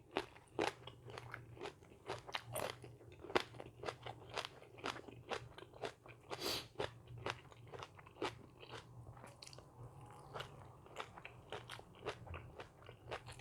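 A person chewing crunchy food close to the microphone: many short, irregular crunches, a few a second, over a faint steady low hum.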